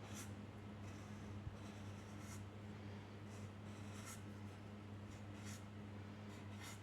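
Faint scratching strokes of a drawing tool on paper, a handful of short strokes spread across a few seconds, over a steady low electrical hum.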